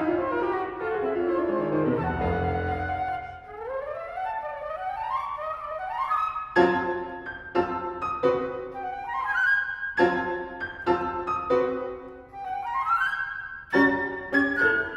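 Flute and piano playing contemporary classical music. A falling run sinks into low piano notes about two seconds in. Fast rising runs follow, and then, from about halfway, a series of sharp, detached piano chords with quick upward runs between them.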